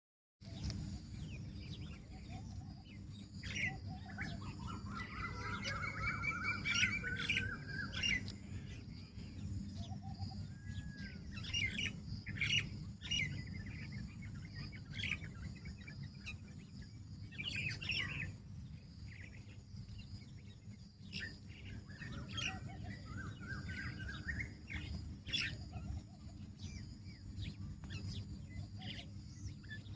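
Several birds chirping and calling, with short chirps scattered throughout and a longer rising trill about four seconds in, over a steady low background rumble.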